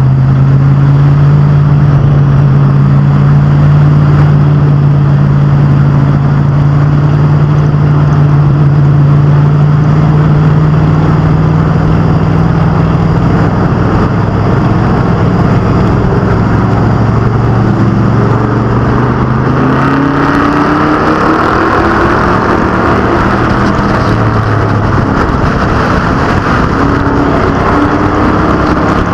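A field of short-track race cars and trucks running on the oval, their engines making a loud, steady drone for the first half. About twenty seconds in, several engines rev up together with rising pitch as the pack accelerates.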